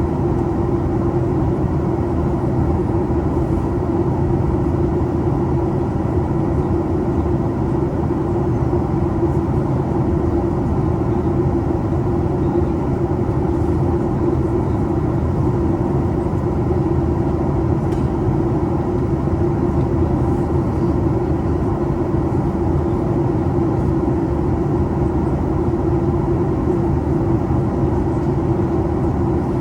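Steady drone of a Boeing 737 MAX 8 in flight, heard inside the cabin: engine and airflow noise with a constant hum running through it.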